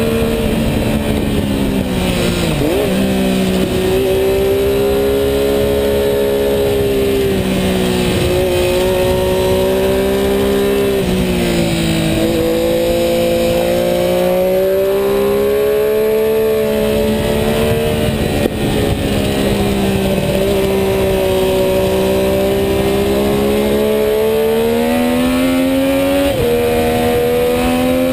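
Sport motorcycle engine at racing speed, heard from on board the bike: its pitch climbs as it pulls and drops sharply several times as the rider shifts and brakes for corners.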